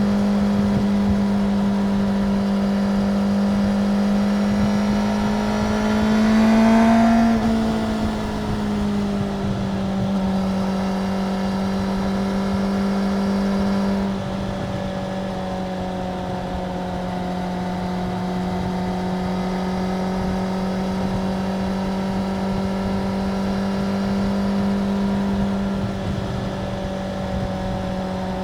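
Stock Suzuki GSX-R 750's inline-four engine on its standard exhaust, running at steady revs, with a brief rise and fall in revs about a quarter of the way in, then holding steady again.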